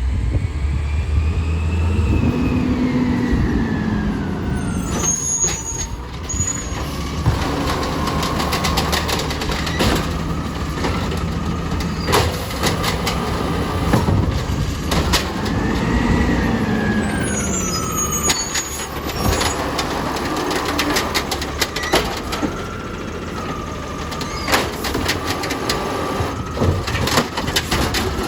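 Garbage truck working its route: the engine revs up and back down twice, and a clatter of knocks and bangs comes in between.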